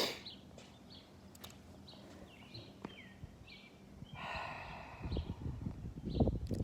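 Short high chirps, each a quick falling note, repeating about twice a second: a bird calling. About four seconds in comes a breathy rush of noise, then uneven low rumbling thumps near the end.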